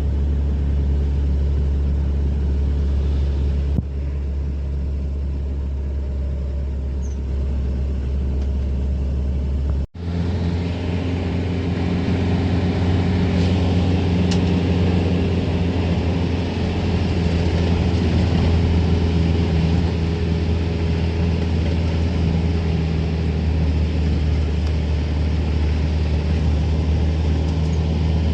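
Steady low rumble with a droning hum, cutting out for an instant about ten seconds in and carrying on slightly louder.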